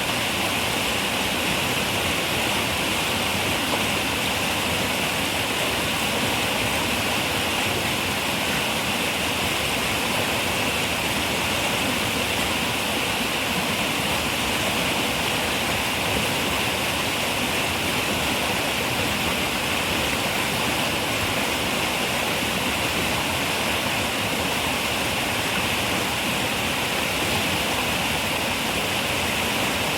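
River water running and splashing in a steady, even rush, with the most energy in the upper-middle hiss.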